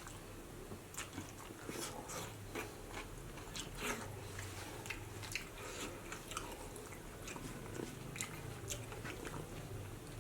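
Close-up eating sounds: irregular wet chewing and mouth smacks as a person eats rice with fatty pork curry, over a low steady hum.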